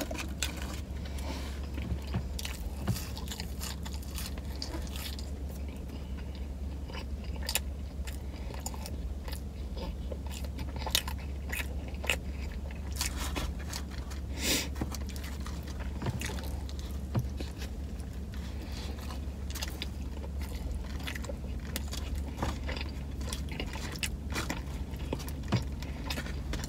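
Close-up eating sounds: biting and chewing a sub sandwich, with many short wet mouth clicks and some handling of its paper wrapper, over a steady low hum.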